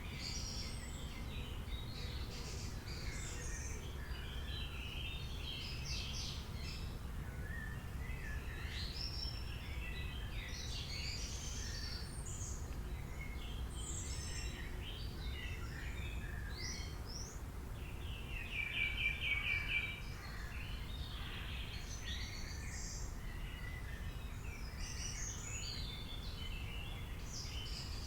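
A chorus of many birds chirping, whistling and calling over a steady low rumble, with a fast buzzy trill about two-thirds of the way through as the loudest call.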